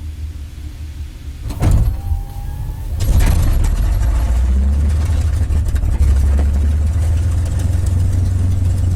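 P-51 Mustang's Merlin V-12 engine starting: a low rumble, a sudden loud cough about a second and a half in, then the engine catches about three seconds in and runs on steadily and loudly.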